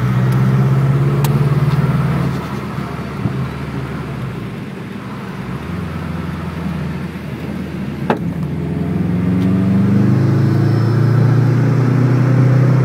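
Turbocharged car's engine heard from inside the cabin under hard acceleration. It eases off about two seconds in and runs quieter for several seconds, with a single sharp click near the middle, then builds again, rising in pitch toward the end.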